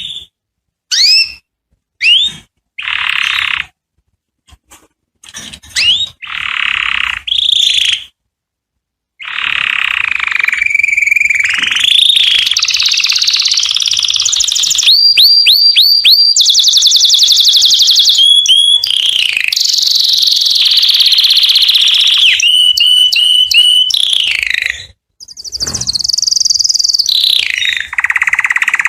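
Male canary singing: a few separate short chirps, then from about nine seconds a long unbroken song of high trills and rapid repeated notes, broken by a short pause about three-quarters of the way through before it sings on.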